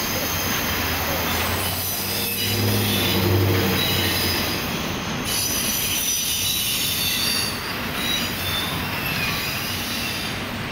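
A long CSX double-stack intermodal freight train rolling past, its cars rumbling steadily while the steel wheels squeal in several high tones that come and go. A low droning tone swells for a couple of seconds near the start.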